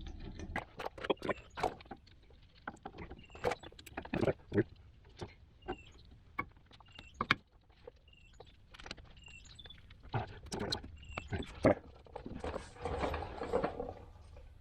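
Metal brake-pad anti-rattle clips and pads being handled and refitted: irregular metallic clicks and clinks, with a scraping rustle near the end.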